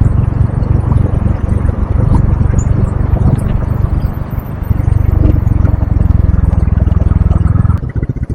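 Motorcycle riding at highway speed: heavy wind rush on the microphone over the engine and road noise. The wind noise drops away sharply near the end.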